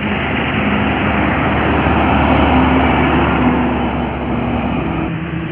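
Heavy truck on a highway: steady diesel engine drone with loud tyre and road noise. The hiss drops sharply about five seconds in.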